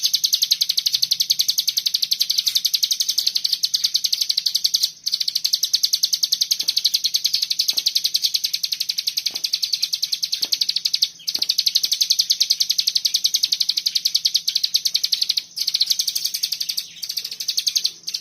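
Common iora singing a dense, rapid machine-gun-like trill of high notes, many per second, broken by a few brief pauses.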